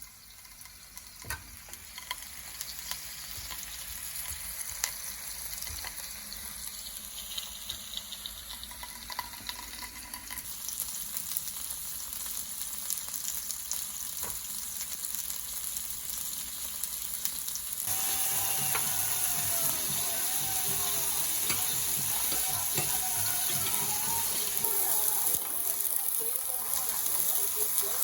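Food sizzling as it fries in a pan, a steady hiss that gets louder about two-thirds of the way through.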